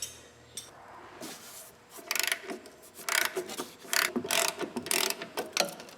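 Hand ratchet wrench clicking in short bursts of strokes, starting about two seconds in.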